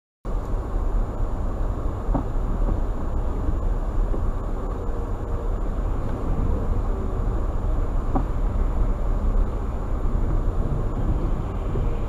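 Steady low rumble of a car driving, road and engine noise, starting abruptly a moment in, with a faint steady high whine.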